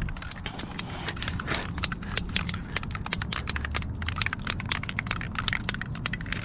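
Motorcycle being rolled by hand, giving a rapid, irregular run of small clicks that stop near the end.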